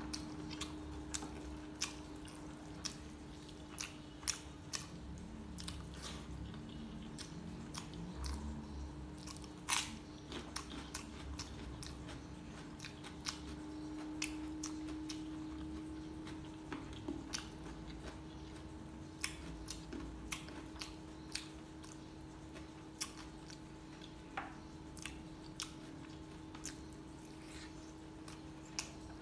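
A person chewing a mouthful of chicken and rice, with scattered small wet mouth clicks and smacks over a steady low hum.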